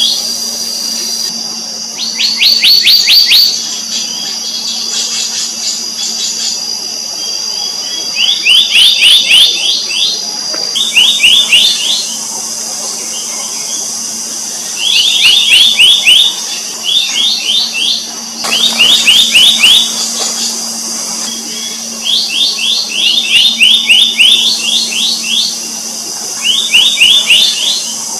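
Black-naped monarch calling: quick runs of sharp, ringing notes, several notes to a run, repeated about every two to four seconds.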